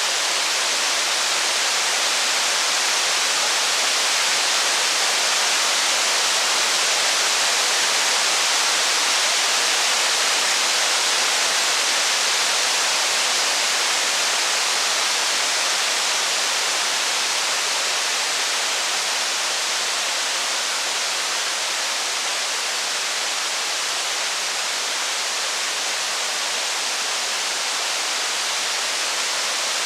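Steady heavy rain: an even, unbroken hiss with no single drops, crackles or thunder standing out.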